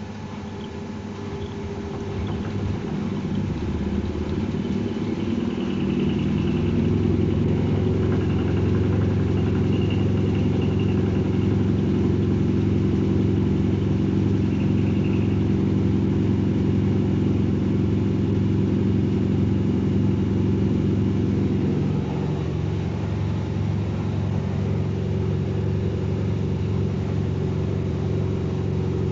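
Washing machine running a spin: the motor and drum build up over the first several seconds into a loud, steady hum, which drops slightly about three quarters of the way through.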